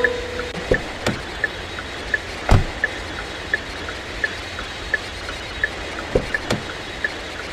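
A steady rumble of a vehicle ride, with a faint, even tick about three times a second. A few sharp knocks and bumps stand out, the loudest about two and a half seconds in.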